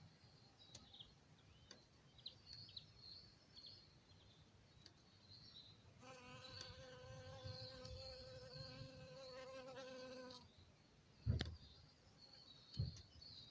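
A bee buzzing, a steady hum that starts about six seconds in and lasts some four seconds, amid faint high chirps. Two dull thumps come near the end.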